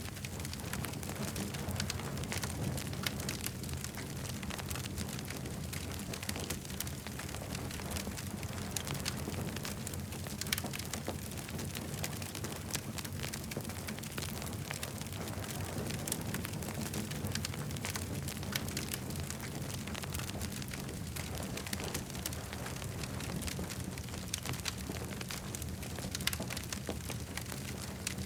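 Campfire crackling steadily, with many sharp little pops and snaps of burning wood over a low, even rumble.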